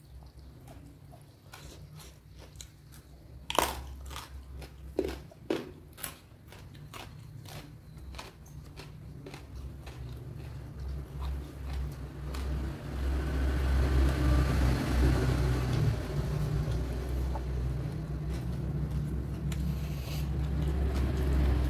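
Close-mouthed biting and chewing of crunchy raw food, with a few sharp crunches about four to six seconds in. A low rumble builds through the second half.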